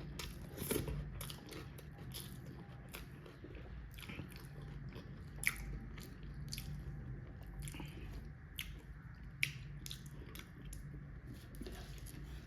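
Close-miked chewing and biting of food, with many small irregular wet mouth clicks and a couple of sharper crunches.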